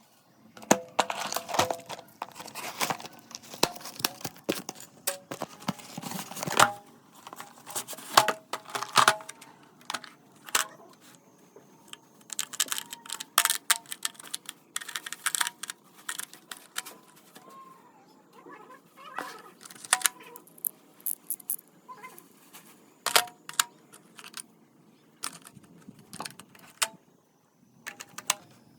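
A metal socket set being handled: irregular clinks, clicks and rattles of small metal sockets and tools, with some tearing and crinkling of packaging.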